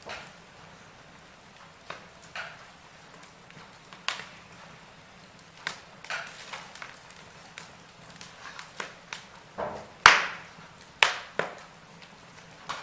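Wood fire crackling in a fireplace: irregular sharp pops and snaps, the loudest about ten seconds in.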